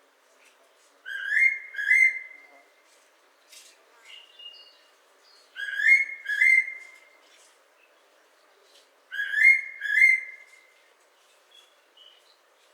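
Fairy pitta singing: three phrases of two clear whistled notes each, every note rising, the phrases about four seconds apart. Faint chirps of other birds sound between them.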